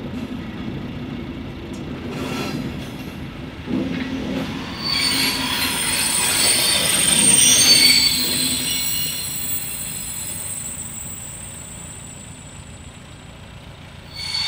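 Train of passenger coaches rolling slowly past, with a high, steady wheel squeal that builds, is loudest about halfway through and fades away as the last coach moves off.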